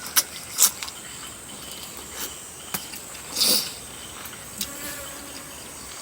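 Quiet eating sounds: scattered small clicks and a short wet slurp about three and a half seconds in, over a faint steady high-pitched whine.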